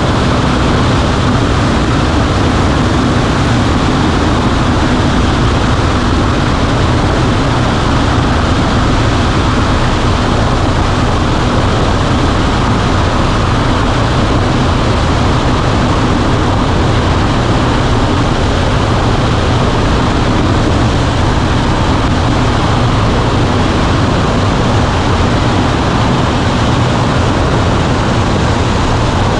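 Cessna 140A's engine and propeller running at a steady, unchanging speed, heard loud and constant from inside the cockpit.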